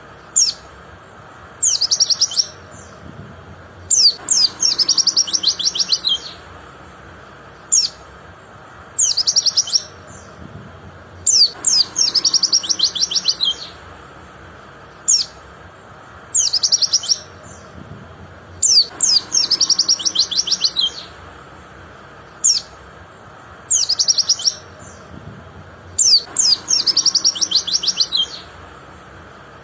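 White-eye (pleci) singing: a short sharp high note, then a fast, high trilling phrase lasting a second or two, repeated every few seconds.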